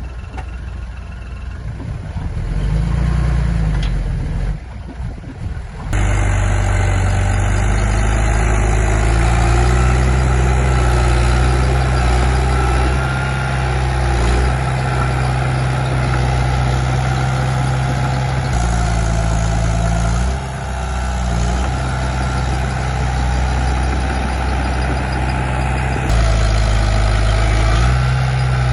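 Heavy diesel engine of earthmoving machinery running. It is quieter for the first few seconds, then becomes louder about six seconds in, and its pitch shifts a few times.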